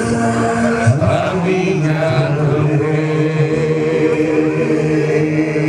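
Chanted singing with long held notes, a gliding change of pitch about a second in.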